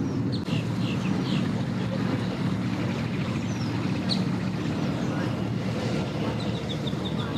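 Boat engine running steadily at low revs, a low hum, with a quick run of high chirps near the end.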